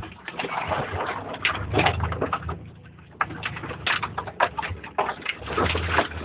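A truck driving over a rough off-road trail, heard from inside the cab: a low engine rumble with irregular knocks and rattles.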